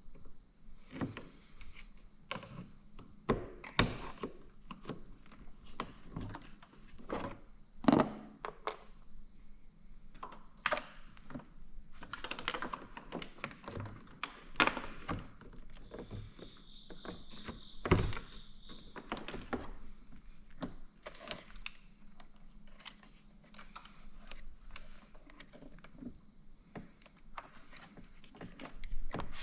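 Irregular knocks, clicks and thunks of parts and tools being handled during hands-on installation work, with the loudest knocks about 4, 8 and 18 seconds in. A faint steady high whine sounds underneath.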